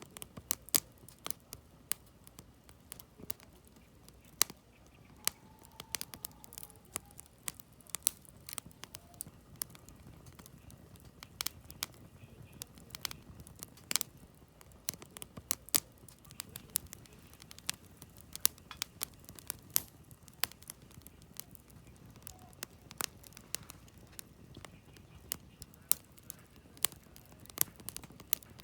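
Wood campfire crackling: irregular sharp pops and snaps from burning firewood over a faint steady hiss of the fire.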